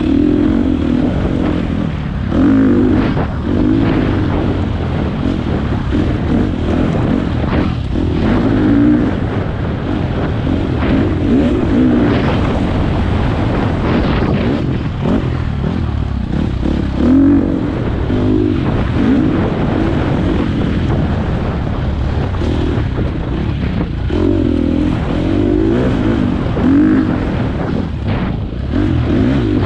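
Four-stroke dirt bike engine running under load on a trail ride, its revs rising and falling every second or two as the throttle is worked, with scattered knocks and clatter from the bike over rough ground.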